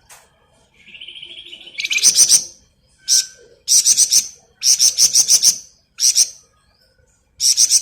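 Flamboyan songbird singing in 'ngebren' style. A buzzy trill about a second in is followed by repeated bursts of quick, sharp, high notes, about one burst a second.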